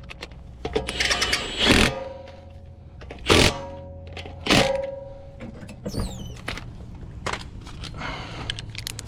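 Torque wrench tightening wheel lug nuts to 103: three sharp metallic clicks with a brief ring, a second or two apart, then a short falling high squeak and a few light ticks.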